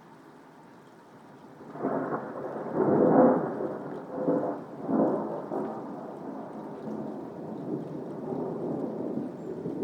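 Rolling thunder over soft, steady rain. The thunder breaks in suddenly a little under two seconds in, swells through a few claps over the next few seconds, and then rumbles on more quietly.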